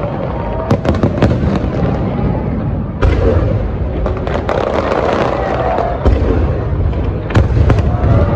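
Fireworks display going off: a continuous low rumble of bursts with sharp, separate bangs cracking through it every second or two.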